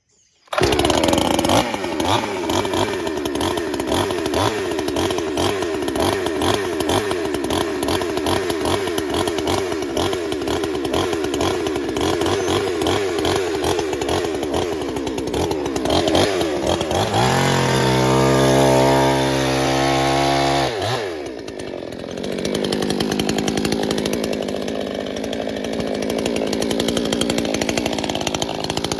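Pinkway 63cc two-stroke chainsaw at full throttle cutting through an oak log, its engine note wavering under load. About 17 seconds in it revs free and steady for a few seconds, then the throttle is let off near 21 seconds and it runs on at a lower, unsteady level.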